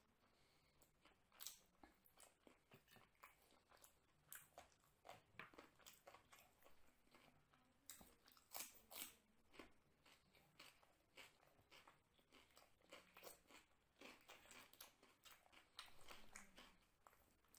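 Close-miked mouth sounds of a person eating chicken biryani by hand: steady chewing with frequent short wet clicks and crunches, and the sharpest crunches near the middle as a slice of raw cucumber is bitten.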